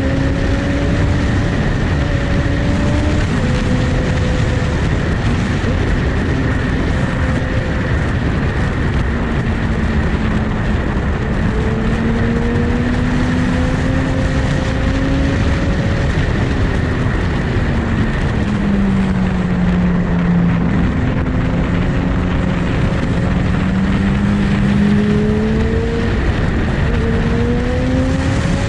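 Sport motorcycle engine running under way with a constant loud rush of noise over it. Its pitch wanders slowly with the throttle, sinking lowest about two-thirds of the way through and climbing again near the end.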